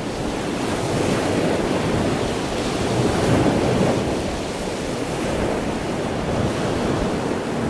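Ocean surf ambience: a steady rush of waves that swells about three seconds in and then eases back.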